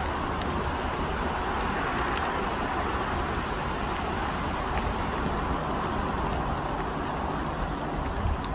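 Steady outdoor ambience: a low rumble of distant road traffic under an even hiss, with scattered faint ticks.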